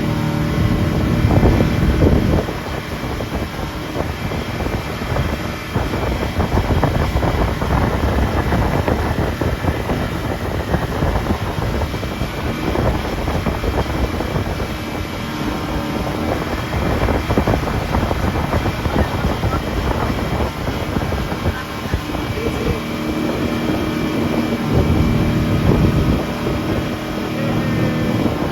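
Speedboat's outboard motor running steadily at speed while towing, with wind buffeting the microphone.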